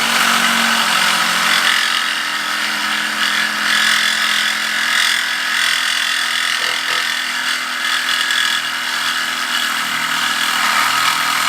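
Power saw running steadily as it cuts through the steel exhaust pipe to remove the catalytic converter.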